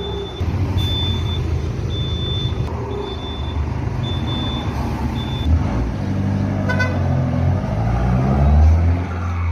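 Iveco Daily 5516 turbodiesel engine with a free-flowing exhaust, running and then revving up in rises near the end, the loudest just before the end. A high thin tone sounds in short pulses about once a second through the first half.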